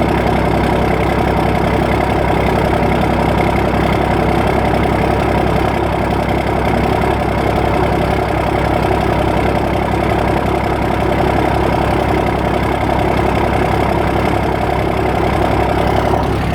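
1995 Dodge's 12-valve Cummins inline-six diesel idling steadily shortly after a cold start, still warming up, with a rapid even diesel clatter.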